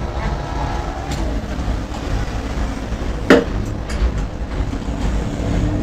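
Truck diesel engine running steadily with a low rumble. A single sharp knock stands out about three seconds in.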